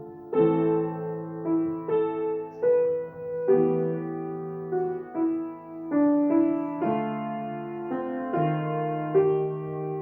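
Solo piano playing a slow, lyrical melody over sustained bass notes, each phrase struck and left to ring.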